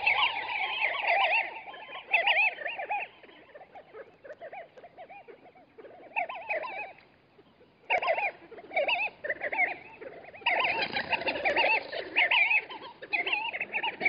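A flock of small birds calling, many short rising-and-falling notes overlapping in a busy chatter. It thins out a few seconds in, nearly stops for a moment just before the eight-second mark, then picks up again.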